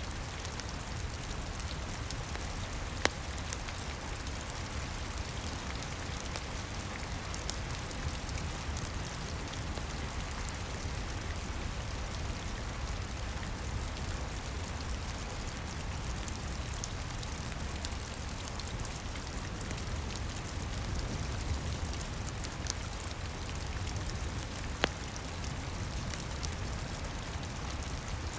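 Steady rain pattering on a roof, with a low rumble underneath and a fireplace crackling faintly. A sharp pop stands out a few seconds in and another near the end.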